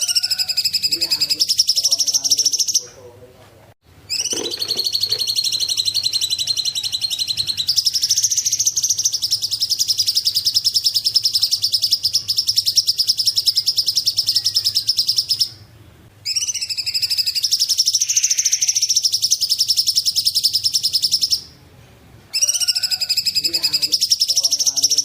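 Cungkok bird singing: long, very fast high-pitched trills, each phrase lasting from about three to eight seconds, broken by short pauses.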